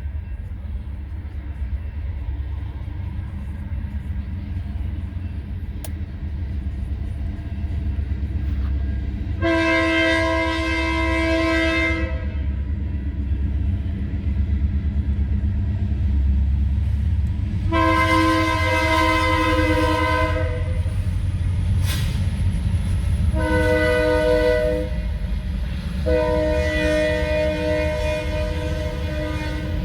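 Freight train locomotive sounding its multi-tone air horn in the grade-crossing pattern, long, long, short, long, the warning for a road crossing ahead, over the steady low rumble of the train.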